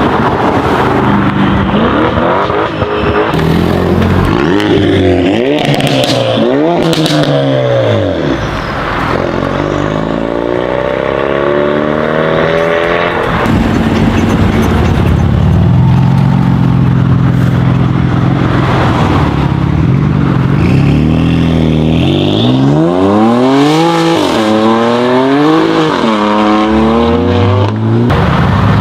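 High-performance sports car engines with loud aftermarket exhausts revving and accelerating, the pitch climbing and dropping repeatedly through rev blips and gear changes. The sound changes abruptly about halfway through.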